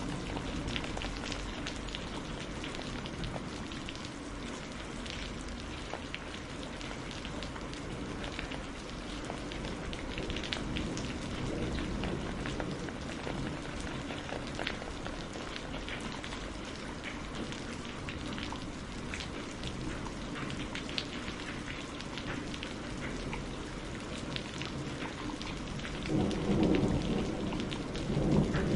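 Steady rain falling, with many small sharp ticks scattered through it. Near the end a low rumble of thunder swells up.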